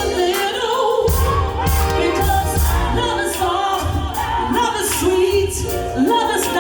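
A singer performing a song live with a band: the voice carries a sustained, sliding melody over a pulsing bass line and drums.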